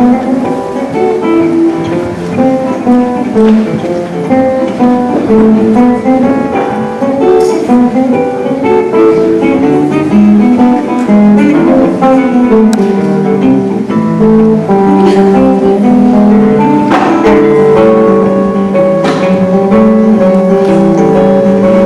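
Resonator guitar playing Mississippi blues: a steady run of plucked single notes and chords with ringing held tones, without singing.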